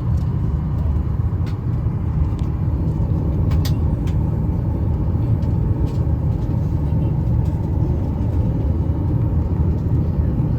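Steady low rumble inside a jet airliner's cabin before takeoff, with a few faint clicks.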